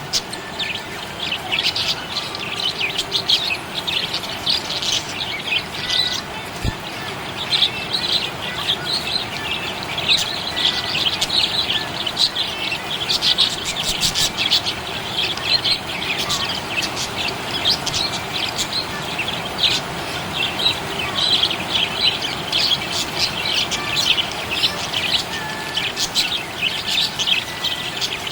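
Budgerigars chirping and warbling: a continuous stream of quick, high chirps overlapping one another.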